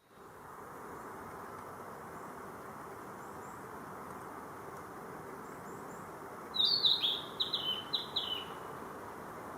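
A Narcissus flycatcher sings one short phrase of several quick, clear notes, about two-thirds of the way in, over a steady background hiss.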